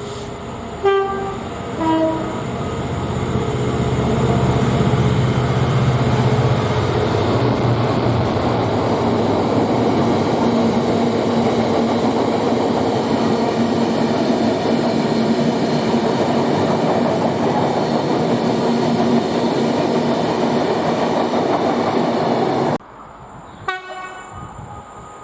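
Diesel freight locomotive sounding its two-tone horn, a short higher note then a lower one, then the freight train passing with a loud, steady rumble of engine and wheels on the rails. The sound cuts off abruptly near the end, leaving a much quieter background.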